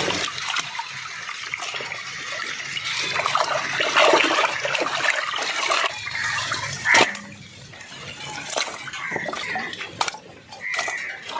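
Water splashing and sloshing in a vessel as raw chicken pieces are rinsed, with a few sharp knocks. It quietens about seven seconds in.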